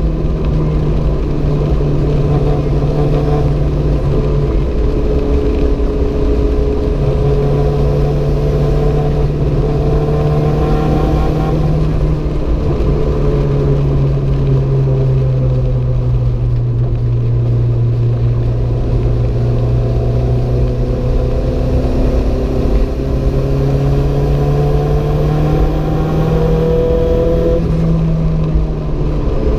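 The turbocharged four-cylinder engine of a Renault 5 GT Turbo running hard under way. Its note rises and falls with throttle and gear changes, stepping down abruptly a few times, over a constant rumble of road and tyre noise.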